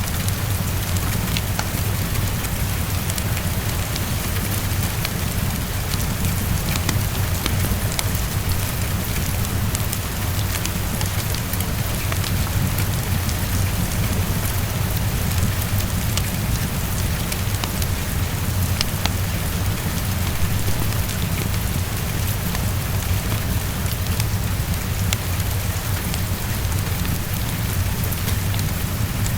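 Heavy rain falling steadily against a window, with a constant low rumble underneath and scattered small crackles and ticks.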